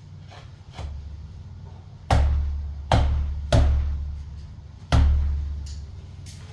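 Four heavy knocks, each with a deep boom that dies away, after a few light clicks: hard blows or objects landing on a hard surface during building work.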